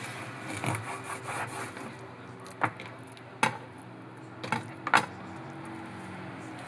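Kitchen prep sounds: scraping and rubbing in the first second or so, then four sharp knocks spread over the next couple of seconds, the last the loudest. A steady low hum runs underneath.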